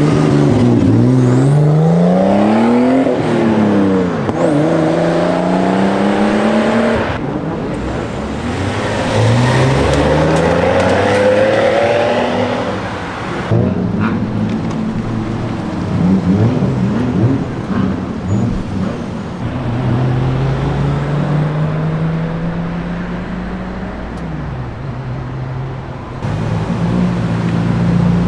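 Car engines revving and accelerating away, pitch climbing and dropping again and again. The sound changes abruptly about a third of the way in, about halfway through and near the end.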